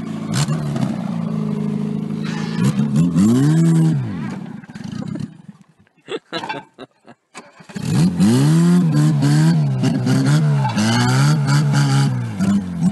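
Engine of a stripped-down Citroën AX revving hard and falling back again and again as it is driven, its pitch rising and dropping about once a second. The sound drops away almost to nothing for about two seconds midway, then the repeated revving resumes.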